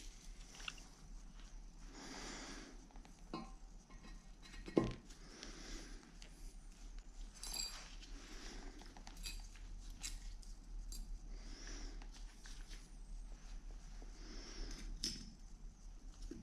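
Light metallic clinks and taps as Bridgeport milling-head parts are handled during reassembly of the back gear shaft, with soft rustling and one sharper click about five seconds in. A faint steady hum sits underneath.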